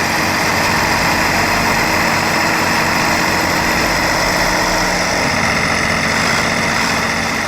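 Tractor engine running steadily and loudly, its note unchanging.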